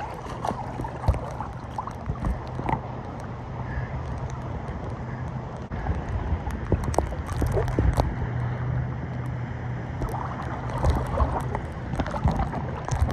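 Paddle strokes splashing in choppy lake water beside a small paddle boat, with scattered short knocks and a steady low rumble of wind on the microphone.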